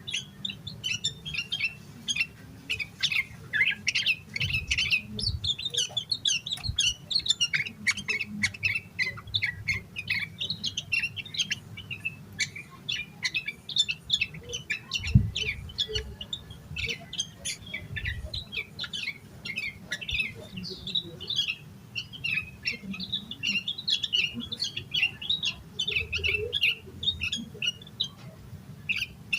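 Yellow-vented bulbul (trucukan) singing in an agitated, unbroken stream of short chirps and squawky notes, with hardly a pause between phrases. A steady low hum runs underneath, and a single low knock comes about halfway through.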